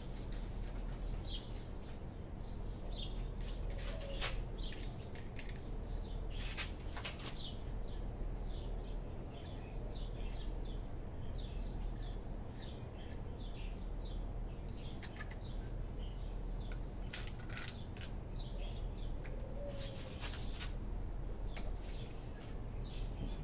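Small birds chirping again and again over a steady low hum, with a few sharp clicks.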